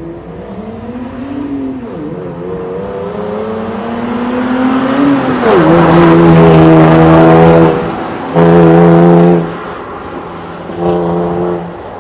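Exhaust of a Toyota Land Cruiser 76's 1GR-FE 4.0-litre V6 through an MS-R valved muffler. The pitch climbs twice, dipping briefly in between, then holds steady through three loud stretches that cut in and out abruptly.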